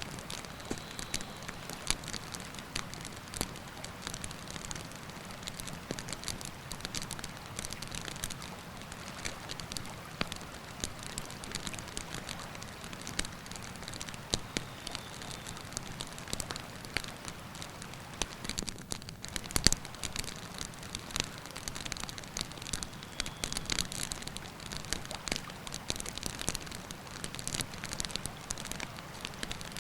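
Wood campfire crackling, with frequent sharp snaps and pops over the steady rush of a river. One louder pop about twenty seconds in.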